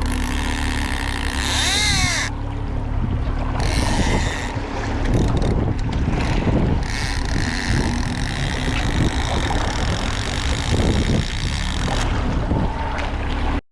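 Boat engine running steadily at trolling speed, with wind buffeting the microphone.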